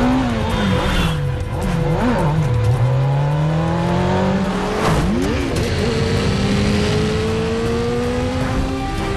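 Motorcycle engines revving hard through gear changes. The pitch climbs and drops several times in the first half, then rises steadily for several seconds, with some tyre squeal over the film's music.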